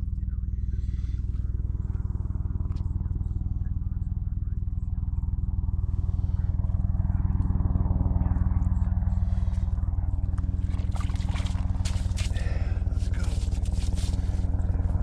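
An engine running steadily at idle, a low even hum. From about halfway through, scraping and clicking sounds lie over it.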